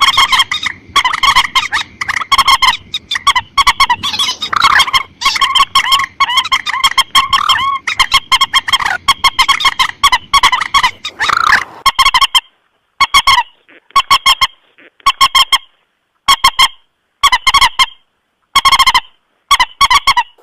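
Common moorhen (mandar batu) lure call: loud, harsh honking call notes repeated in fast runs. A bit past halfway the calling thins out into short separate bursts with dead silence between them.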